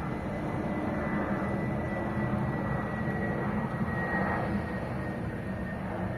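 Airplane engines running, a steady rushing rumble with a thin high whine that drops slightly in pitch.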